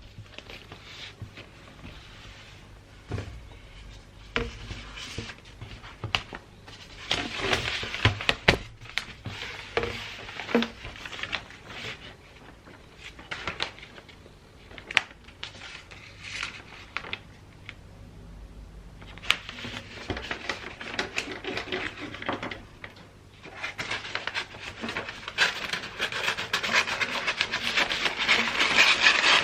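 Wrapping paper being handled, rustling and crinkling, with scattered taps and clicks. The rustling grows louder and denser over the last few seconds.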